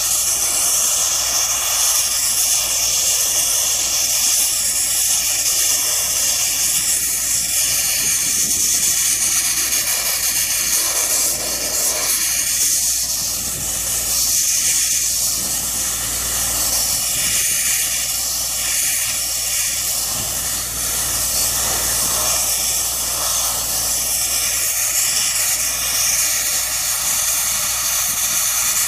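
Blasmatics sandblaster blasting abrasive at a truck trailer: a loud, steady hissing rush of compressed air and grit.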